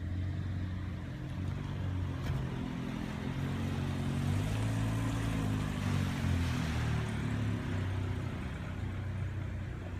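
A motor vehicle engine running with a low, steady hum that shifts slightly in pitch, with traffic noise swelling and fading in the middle.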